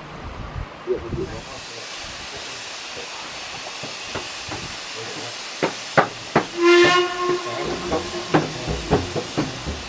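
Steam hissing from a steam locomotive, then several sharp metallic clanks and one short whistle blast of about a second, loud and clear, a little over halfway through.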